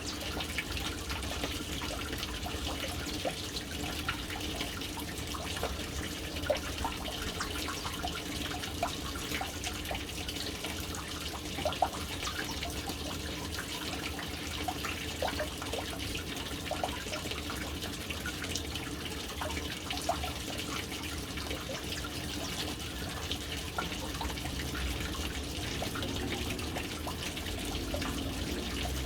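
Water falling steadily into a household water tank, a continuous splashing stream with scattered drips and a few sharper drops.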